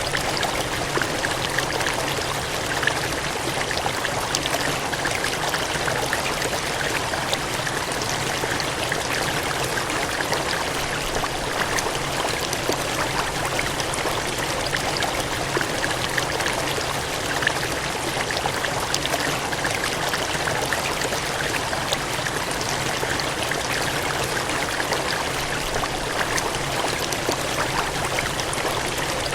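Cascading water gushing in a steady, unbroken rush, flecked with fine splashes.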